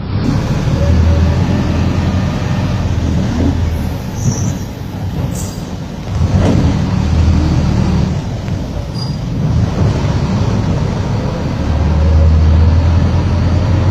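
Diesel engine of a Mercedes-Benz OF-1722M bus running as the bus drives, its low drone swelling and easing several times with the throttle. There is a brief knock about six and a half seconds in.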